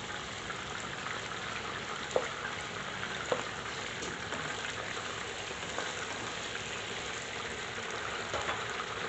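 Chicken pieces frying in oil in a karahi: a steady sizzle and crackle, with a few louder clicks, two of them about two and three seconds in.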